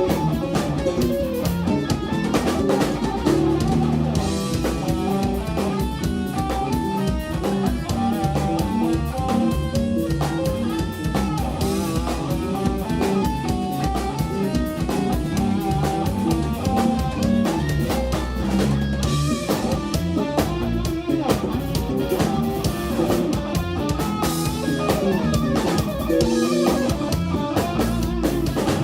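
Live instrumental jazz-rock from a guitar, bass and drum kit trio: fast melodic guitar lines over steady drumming and bass.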